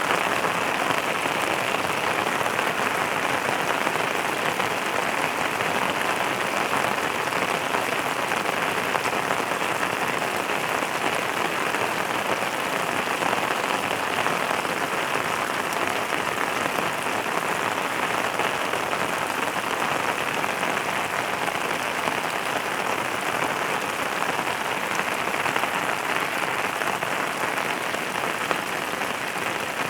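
Steady rain falling, a dense even patter of drops that holds at one level without let-up.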